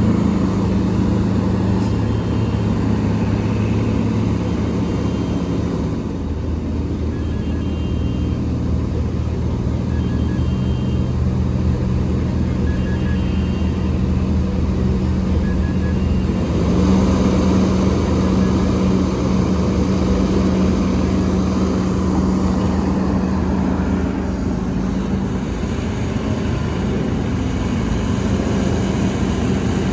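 Heavy diesel earthmoving machinery, excavator and dump trucks, running steadily. The engine note shifts about six seconds in and rises around seventeen seconds in, as the machines come under load.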